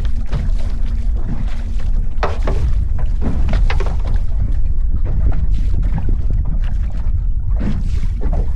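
Boat under way on open water: a steady low engine rumble, with wind rushing over the microphone and irregular short splashes or knocks.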